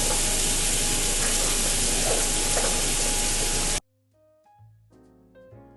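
Chicken skewers sizzling on a raclette grill: a steady, dense hiss with a few faint pops, cut off abruptly a little under four seconds in. Soft piano-like background music follows.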